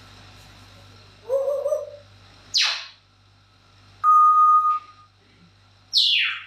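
Pet parrot whistling and calling in separate bursts. There is a short low call, then a sharp whistle sliding steeply down in pitch. Then comes a loud held whistle on one steady note, and near the end another steep downward whistle.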